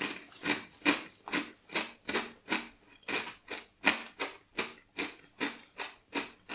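A person chewing a crunchy corn tortilla chip with the mouth closed: a steady run of short crunches, about two and a half a second.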